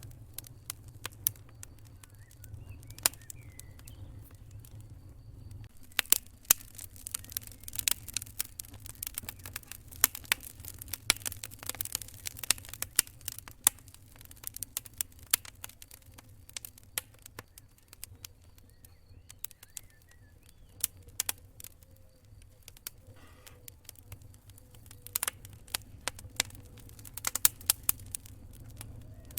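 Wood campfire crackling and popping in irregular snaps, with thicker runs of crackle about a third of the way in and again near the end, over a low steady rumble of the burning fire. A faint pulsing high cricket trill runs underneath.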